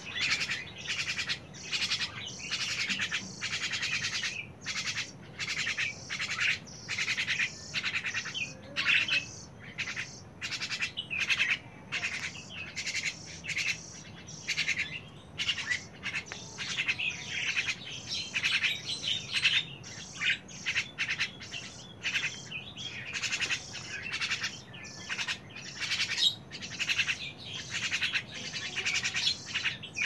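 Birds chirping and chattering in a fast, continuous stream of short, sharp calls with only brief gaps.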